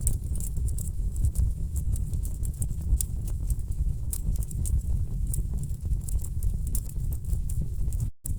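Wood fire burning in a fireplace: a steady low rumble of flames with frequent sharp crackles and pops from the logs. The sound cuts out for an instant near the end.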